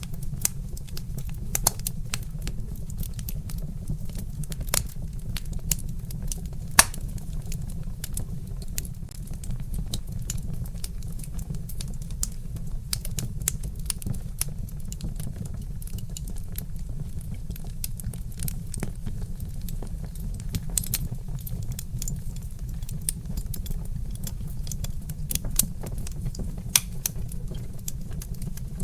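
Log fire crackling: frequent irregular pops and snaps over a steady low rumble, with one louder pop about seven seconds in.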